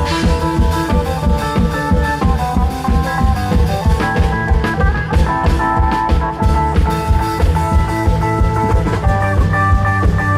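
Isan klong yao (long-drum) band playing upbeat music: fast, driving drumming under a held melody line.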